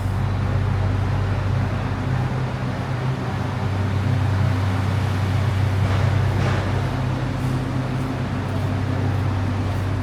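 Steady low hum and rumble of an HCMC Metro Line 1 train heard from inside the carriage, with the train running between stations.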